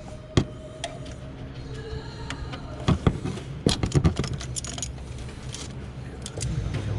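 Hands unclipping plastic wiring connectors on a Ford 5.4-litre V8 engine: scattered sharp clicks and light rattling, bunched in a quick cluster around the middle.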